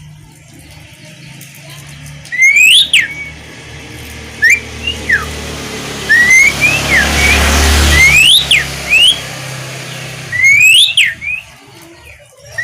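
Jalak suren (pied starling) singing loud whistled notes, each a quick sharp rise and fall in pitch, delivered in short groups with gaps between. A rushing background noise with a low rumble swells and fades in the middle.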